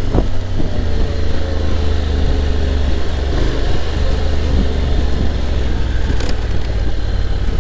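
Honda X-ADV's parallel-twin engine running under way at city speed, recorded from the bike itself, a steady low rumble.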